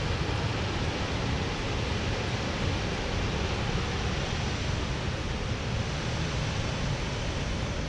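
Steady rushing roar of a large waterfall, even and unbroken.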